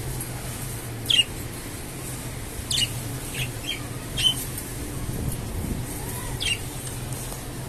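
Budgerigars giving short, sharp chirps, about five or six scattered calls that each sweep quickly downward in pitch, over a steady low hum.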